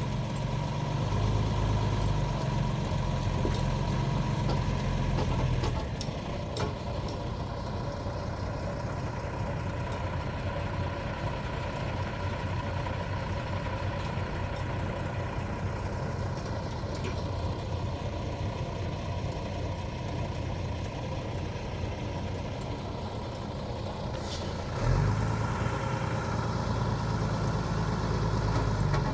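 A heavy engine idling. It is loud for the first six seconds, drops to a lower level through the middle, and comes back loud suddenly about 25 seconds in. A steady whine runs underneath.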